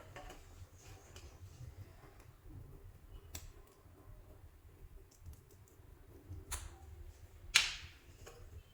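Hands working soft clay: faint sticky clicks and squelches, a couple of sharper clicks, and a louder crackling pop near the end.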